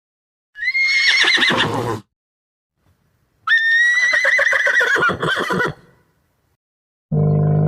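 A horse whinnying twice, each a high quavering call that falls in pitch. A steady low tone begins near the end.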